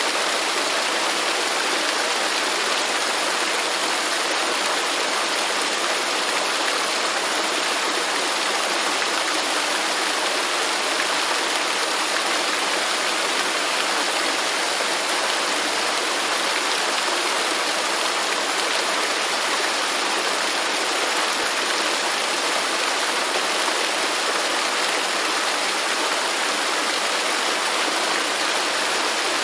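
Waterfall pouring steadily, an even rushing of falling water with no pauses.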